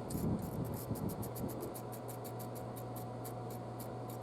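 Faint scratching and handling noises from tightening the collar clamp on the air intake hose at the throttle body, over a steady low hum and a rapid, even high ticking.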